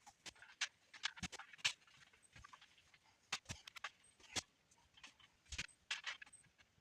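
Irregular light knocks and clicks, a dozen or so, scattered unevenly with quiet between them, like objects being handled and set down.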